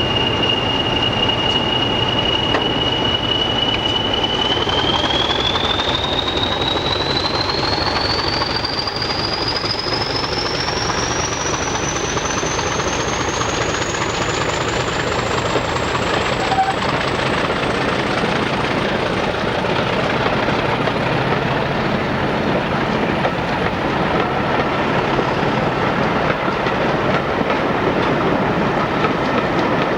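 Diesel train running, with a steady noise and a single high whine. The whine holds one pitch, then climbs steadily higher from about four seconds in.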